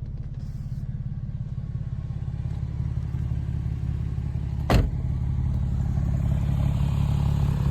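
Porsche 911 (996) Carrera 4's flat-six engine idling through an aftermarket Dansk exhaust: a steady, low, even burble that grows slowly louder. A single sharp knock sounds a little before five seconds in.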